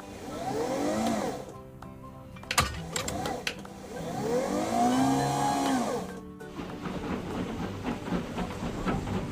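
Cartoon machine sound effect: a motor whine that rises and then falls in pitch, twice at length (about a second in and around five seconds) and once briefly near three seconds, over background music.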